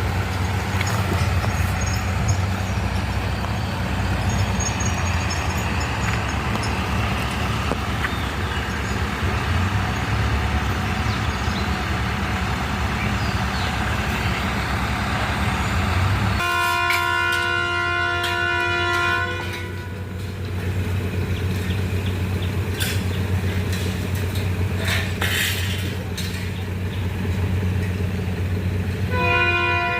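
A large engine running steadily. About halfway through, a multi-tone horn sounds for a couple of seconds, then sounds again briefly near the end, with a few sharp knocks in between.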